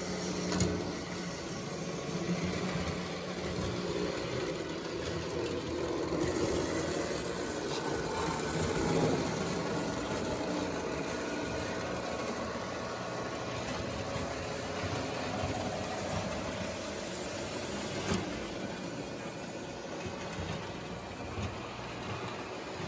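Model trains running on a layout: electric motors humming and wheels rolling on the track, with a couple of sharp clicks.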